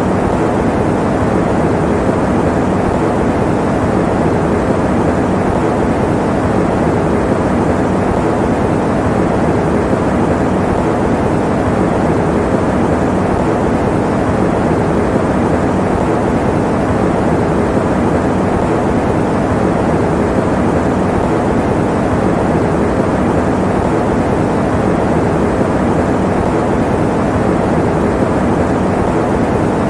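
Electric fan running: a steady, muffled whooshing noise with no hum or tone in it.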